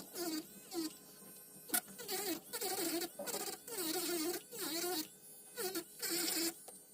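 Electric nail drill buzzing in short passes against an acrylic nail, its pitch dipping and wavering as the bit presses and lifts, with brief gaps between passes.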